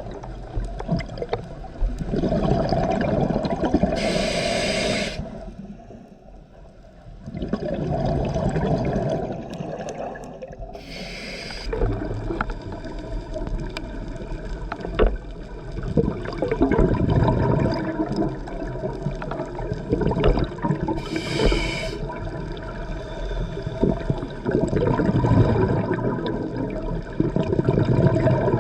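A scuba diver breathing underwater through a regulator: a short hiss of inhalation every seven to ten seconds, each followed by a long bubbling, rumbling exhalation.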